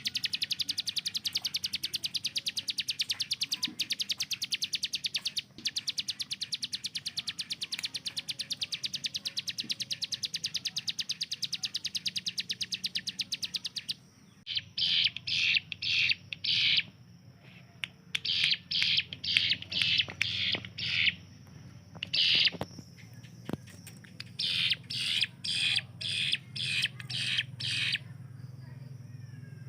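Ciblek gunung (a prinia) singing: a very fast, unbroken rattle of high notes, like rapid fire, that runs for about fourteen seconds, then breaks into short, louder bursts of quickly repeated notes.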